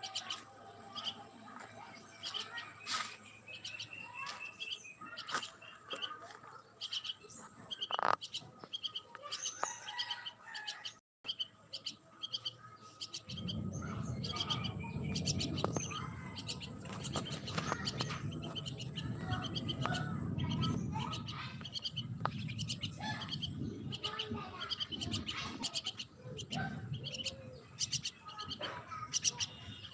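Many small birds chirping and tweeting in rapid, overlapping calls. After a brief break about 11 seconds in, a steady low background rumble joins the chirping.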